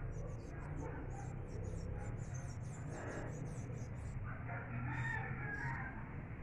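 Birds calling: quick high chirps through the first few seconds, then a longer call about five seconds in, over a steady low hum.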